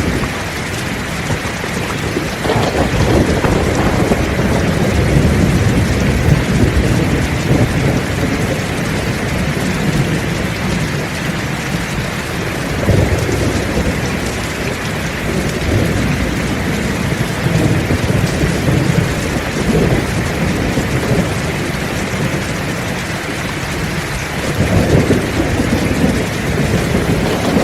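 Heavy rain pouring steadily with thunder rumbling in repeated long swells through it.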